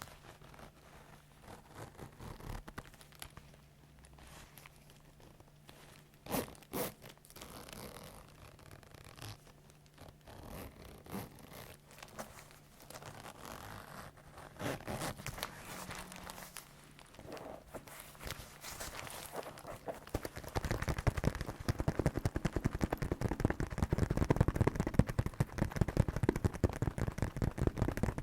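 Leather bags and gloves being handled: scattered soft creaks and rustles, then about twenty seconds in a louder, dense run of rapid crackling creaks.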